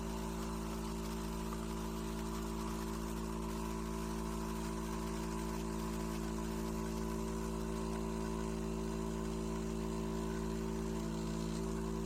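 Fully automatic espresso machine's pump running with a steady hum that holds unchanged throughout.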